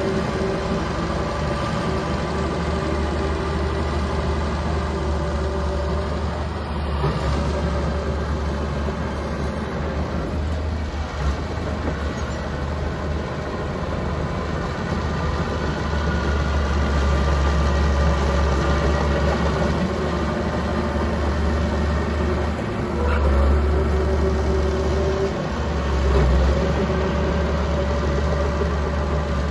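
Small crawler bulldozer's diesel engine running steadily while working, its level swelling a few times in the second half.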